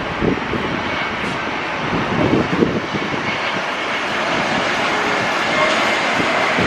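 Airliner engines making a steady roar that slowly grows louder, with faint whining tones, and gusts of wind buffeting the microphone.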